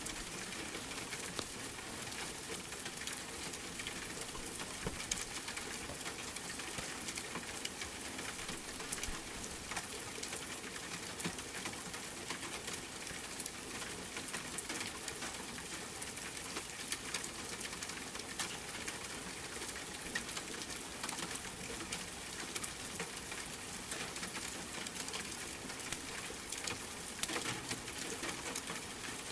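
Steady rain with irregular sharp crackles and pops from a wood fire in a fireplace.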